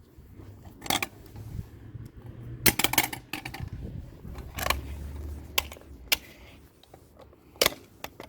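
Small hard objects knocking and clinking against each other, in scattered clusters of sharp clicks, over a low hum.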